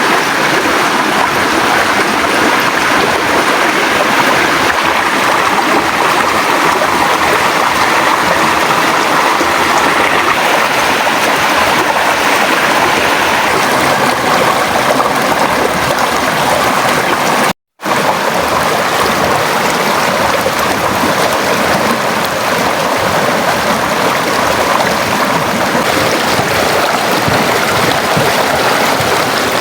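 River water rushing steadily, a loud even flow. It cuts out completely for a split second about two-thirds of the way through.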